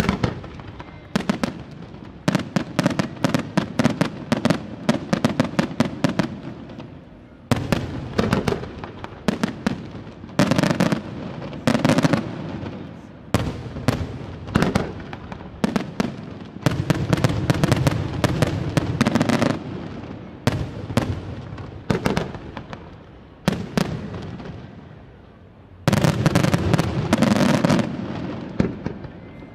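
Aerial firework shells bursting in rapid volleys of sharp reports over a low rumble, coming in waves with short lulls between. After a quieter spell, a dense volley starts suddenly near the end.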